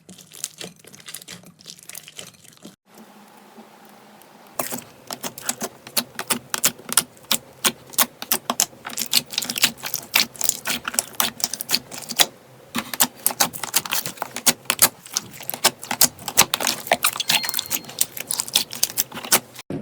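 Slime being squeezed and worked by hand, giving sharp clicky pops and crackles: sparse at first, then after a short lull a dense, fast run of clicks.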